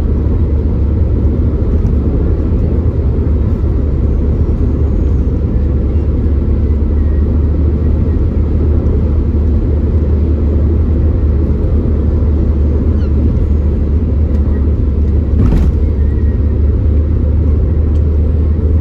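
Car being driven along a road: a steady low rumble of engine and tyres, with a brief tick about fifteen seconds in.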